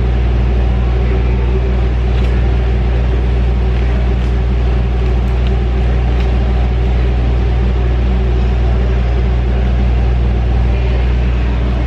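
Steady low machine drone with a deep hum that holds unchanged throughout.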